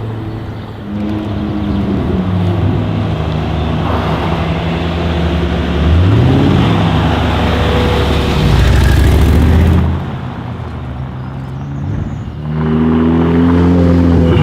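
Mercedes-AMG G63's twin-turbo V8 running through an Akrapovic exhaust and being revved. It gives a quick rise-and-fall blip about six seconds in and is loudest from about eight to ten seconds. It then drops back and climbs again near the end.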